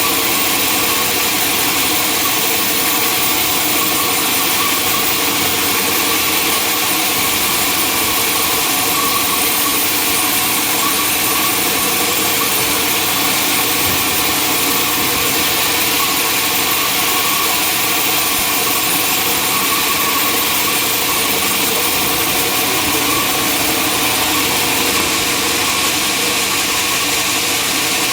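Sawmill machinery running steadily and unchanging: a loud, even hiss over a steady mechanical hum.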